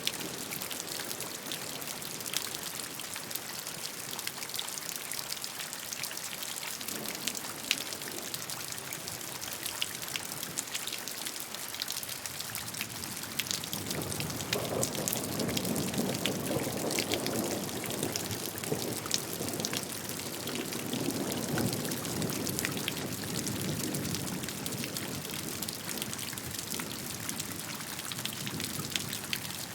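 Steady rainfall: an even hiss with many individual drops ticking on a surface. About halfway through, a heavier, lower splashing swells in for several seconds, then eases off.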